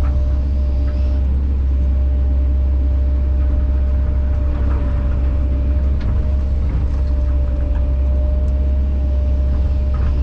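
Kobelco SK210 excavator running steadily under work: a constant low engine drone with a steady higher hum above it, and a few faint knocks.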